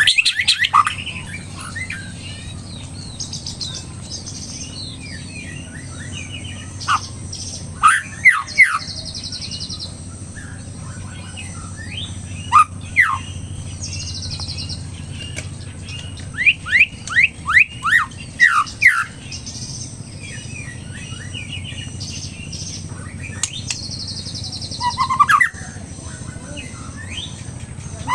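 White-rumped shama (murai batu) in an agitated, fired-up state, giving sharp whistled notes that sweep steeply in pitch. It gives some notes singly and one run of about half a dozen in quick succession, interspersed with higher buzzy, rattling notes. A steady low hum runs underneath.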